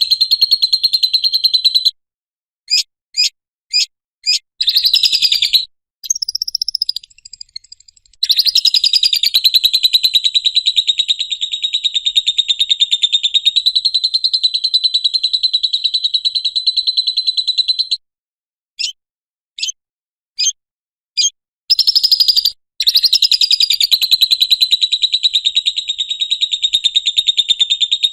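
Lovebird 'ngekek' call: a long, fast, shrill chattering trill held for many seconds at a time. It breaks off twice, each time for a few short separate chirps, then starts again.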